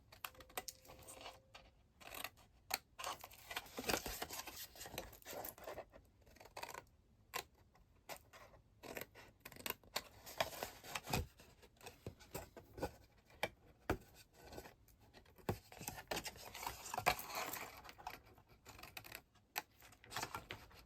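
Scissors snipping cardstock, with irregular scraping and rustling of card being handled.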